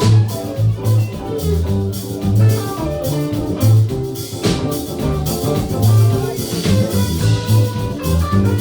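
A band playing an instrumental stretch of a cover song, with a rhythmic low bass line and drums, and no singing.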